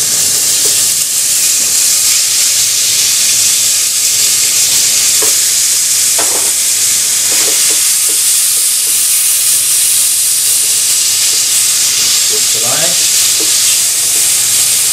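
Chicken pieces in a wet yogurt-and-herb marinade sizzling loudly in hot oil in a frying pan, stirred with a wooden spatula that scrapes a few times.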